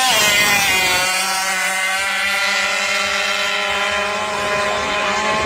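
Small two-stroke engine of a radio-controlled Thai long-tail racing boat running under way, a steady buzzing note that drops in pitch just after the start and then holds.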